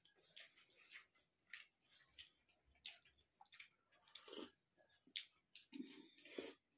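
Faint eating sounds: chewing and lip smacks as rice and curry are eaten by hand, coming as irregular short clicks a few times a second, with a louder sip from a bowl of dal about four seconds in.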